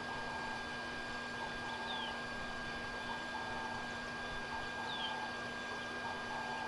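Outdoor ambience with a steady hiss, and a bird twice giving a short, high, falling whistle about three seconds apart. Fainter short chirps come every second or so.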